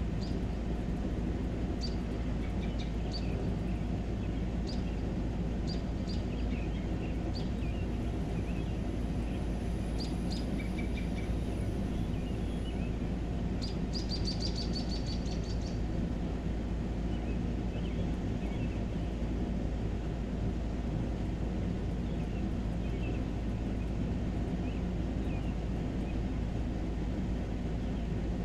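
Birds chirping outdoors, a few scattered calls over the first half and a quick run of chirps about halfway through, over a steady low background rumble.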